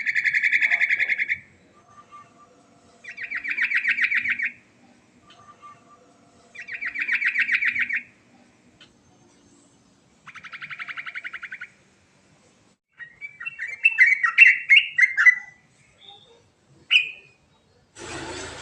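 Yellow-vented bulbul (trucukan) singing: four rapid trills about three seconds apart, then a jumble of quick varied chirps and a single short note near the end.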